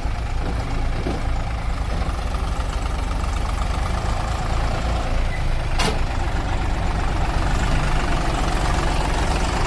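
Heavy diesel engine of farm or earthmoving machinery running steadily with a deep rumble. A single sharp click comes about six seconds in, and the engine gets a little louder after it.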